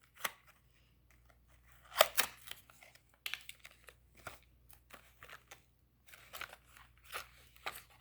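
Toy packaging being worked open by hand: irregular crinkles, clicks and tearing sounds, with the loudest snap about two seconds in.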